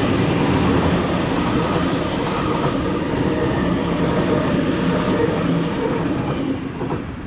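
Sydney Trains Waratah electric suburban train passing through the station, a steady rumble of wheels and traction motors that fades near the end.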